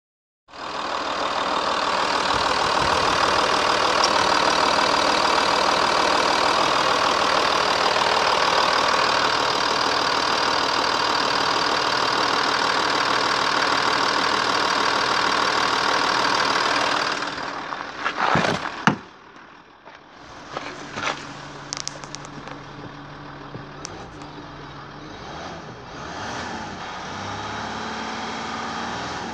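Ford Territory's 2.7-litre V6 turbo diesel running steadily. About 17 seconds in the sound drops sharply, a couple of knocks follow, and the running goes on much quieter.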